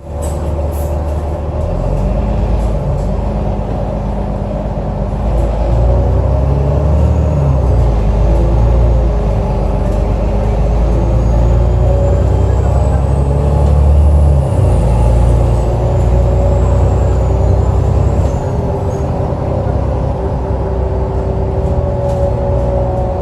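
Alexander Dennis Enviro 500 double-decker bus engine running with a loud low drone whose pitch rises and falls, changing abruptly about fourteen seconds in, with a faint high whine gliding up and down. It is an unusual engine sound, called weird.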